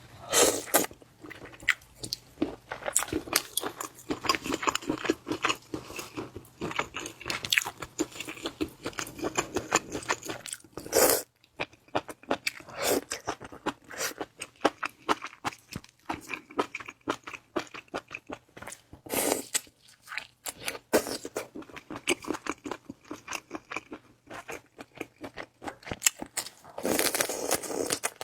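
Close-miked chewing and crunching of shrimp, with a dense run of crisp crunches and a few louder bites at intervals.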